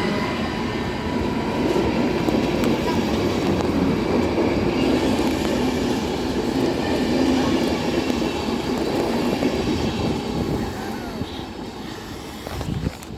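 Passenger train rolling past as it pulls into the station, a steady rumble of wheels on the rails with some clatter and wheel squeal. The noise fades over the last few seconds.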